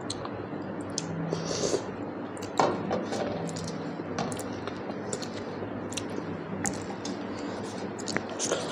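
A person eating close to the microphone: wet chewing and lip-smacking on mouthfuls of rice with dal and fish curry, with many short sharp smacks and clicks. A louder smack comes about two and a half seconds in, over a steady low hum.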